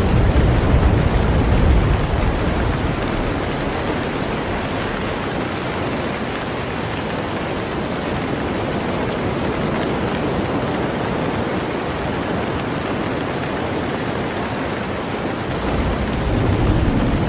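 Heavy rain falling steadily on a boat, a dense even hiss. A low rumble swells near the start and again near the end.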